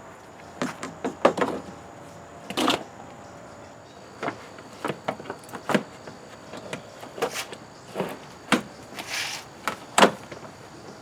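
Irregular knocks, clicks and clatter of parts being handled and fitted in an engine bay, with a short hiss-like rustle about nine seconds in, over a faint steady background hum.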